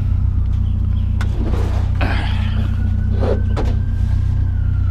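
A vehicle engine idling steadily under a few separate knocks and clanks as scrap metal is shifted around.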